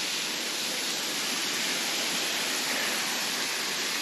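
Steady rush of water falling from the sandstone rock overhead, many drops and trickles together sounding like rain.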